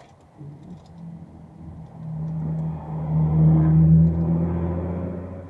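A motor vehicle's engine passing by: a steady hum that swells to its loudest about four seconds in, then fades. A short click comes at the very start.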